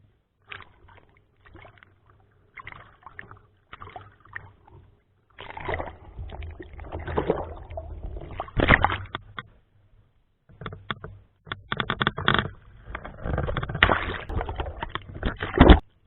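Strong typhoon wind buffeting the microphone in uneven gusts, often dropping out between them and louder in the second half.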